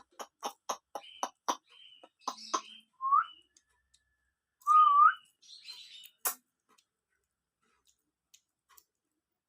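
A quick run of sharp clicks, about four a second, then two short rising whistles a couple of seconds apart, from play with a ringneck parrot, and one more click.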